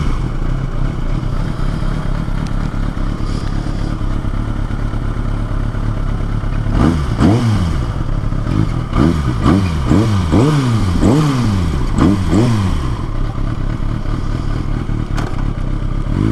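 Kawasaki ZX-6R's inline-four engine idling just after starting up. About seven seconds in the throttle is blipped again and again, for roughly eight quick revs that rise and fall, then it settles back to a steady idle.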